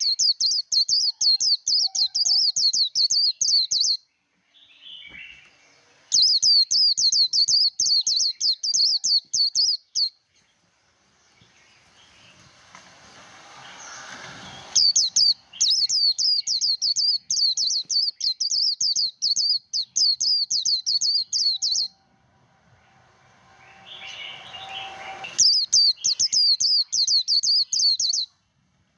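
White-eye (vành khuyên) singing its rapid, high-pitched 'líu' competition trill in four bursts of several seconds each, with short pauses between them.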